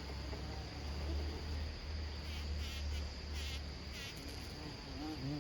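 Bumblebee buzzing as a low hum that stops about four seconds in, over a steady high insect trill and a few short chirps.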